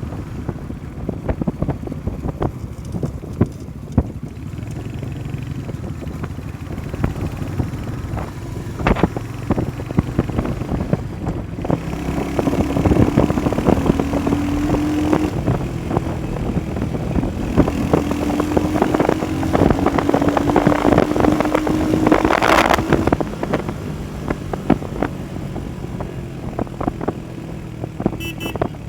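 Motorcycle engine running on the move, with wind buffeting and knocking on the microphone; the engine pitch rises twice in the middle as the bike accelerates. A sharp bump sounds about two-thirds of the way through.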